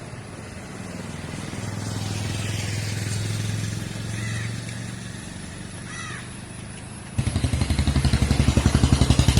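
A motor vehicle passes on the road with a low engine hum that swells and fades, and a bird calls twice. About seven seconds in, a louder engine with a fast, throbbing beat cuts in suddenly.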